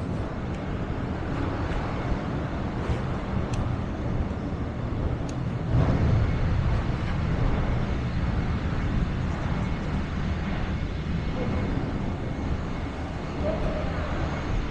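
Steady low rumble of vehicle noise, swelling louder for a moment about six seconds in.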